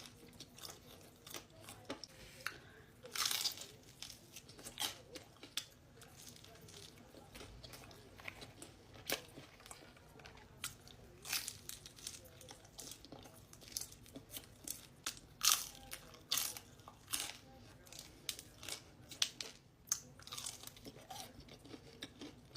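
Close-miked eating of pizza: bites and chewing with crunching crust, heard as irregular sharp, crackly clicks throughout.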